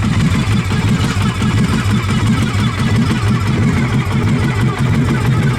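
2003 Victory Classic Cruiser's 92 cubic inch V-twin running steadily at idle through an unbaffled exhaust, with a loud, deep, pulsing note.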